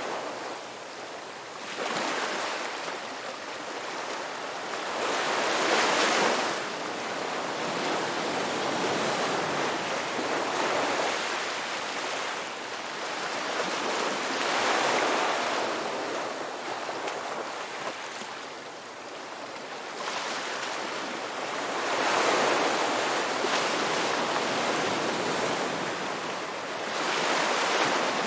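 Ocean waves breaking on a rocky beach, each surge of surf swelling and washing back every few seconds.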